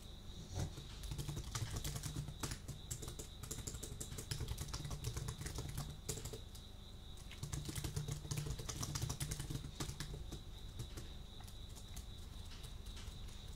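Computer keyboard being typed on in quick runs of key clicks, with a short lull about six seconds in, over a faint steady high-pitched tone.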